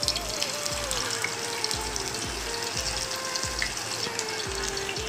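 Beef koftas deep-frying in oil in a pan over a low flame: a steady crackling sizzle. Background music with a slow melody and a steady beat plays over it.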